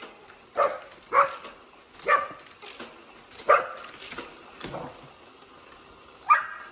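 A dog barking, about six short single barks at uneven intervals.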